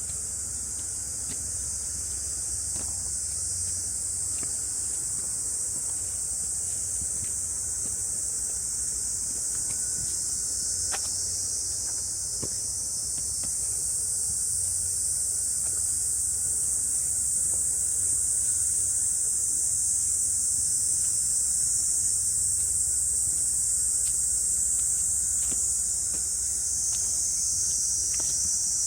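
A chorus of cicadas buzzing in a steady, high, unbroken drone, growing a little louder partway through.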